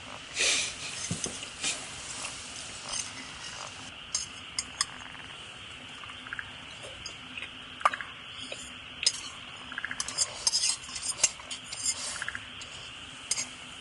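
Metal utensils clinking and scraping against camp cookware, a string of short irregular clinks.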